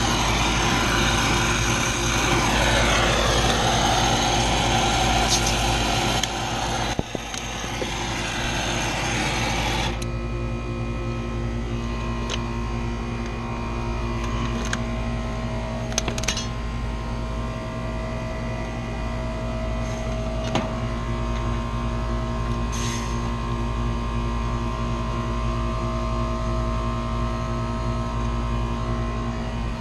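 Steady mechanical hum with a few scattered clicks and knocks. A louder, noisier stretch in the first ten seconds stops abruptly.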